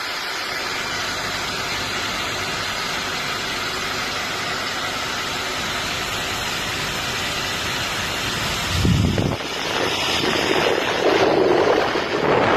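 Rowenta K/pro Stylist CV888L hair dryer with an AC motor, running with a steady rush of air. About nine seconds in there is a brief low rumble, and the sound gets louder and more uneven after that.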